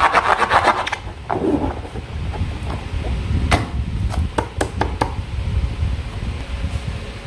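Hands working slime and balloons: a fast run of sticky clicks and crackles that stops about a second in, then scattered single clicks and pops over a low rumble.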